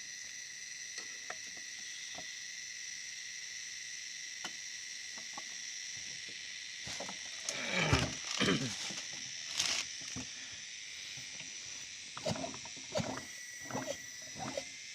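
Steady chirping of crickets or similar insects. About halfway, a chainsaw's recoil starter cord is pulled a few times, a whirring that falls in pitch, followed by scattered knocks near the end.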